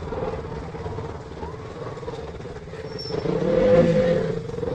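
Motorcycle engine running steadily while riding in traffic. Another vehicle draws close and passes about three seconds in, the loudest moment, its pitch bending as it goes by.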